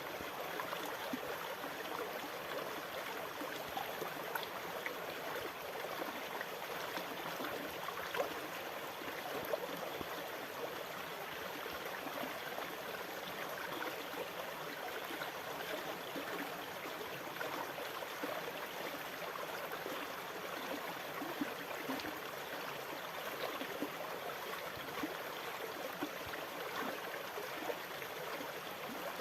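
Water running steadily with fine bubbling and splashing, an even rush without wave swells.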